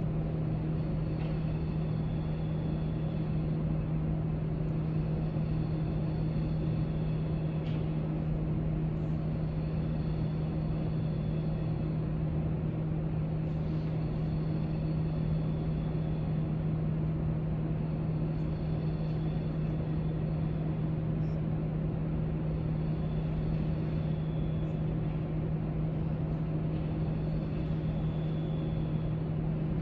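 Library room tone: a steady low hum and rumble that does not change, with a few faint high tones that come and go and scattered faint ticks.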